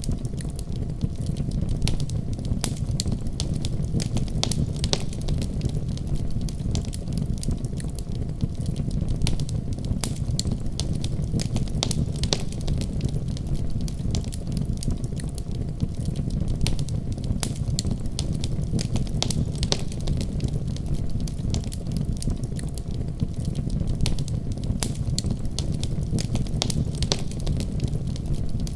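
Wood fire burning in a fireplace: a steady low rumble of flames with frequent irregular crackles and pops from the burning wood.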